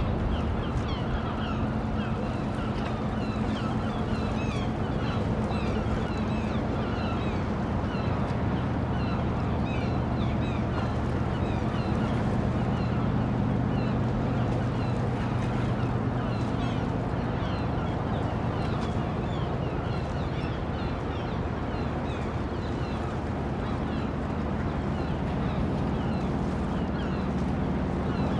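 Dockside ambience: a low, steady engine drone, like a boat idling at the dock, under a continuous scatter of short bird calls.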